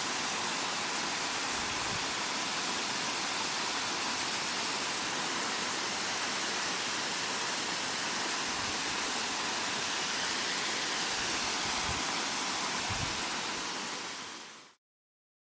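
Waterfall rushing: a steady, even roar of falling water that fades out near the end.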